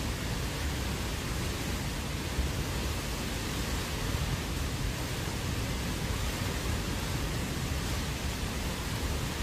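Hurricane-force wind with rain, a steady, unbroken rushing noise heaviest in the low end.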